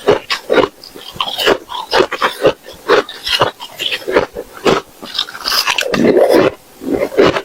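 Ice being bitten and chewed close to the microphone: a run of loud, sharp crunches, with a denser stretch of crunching about two-thirds of the way through.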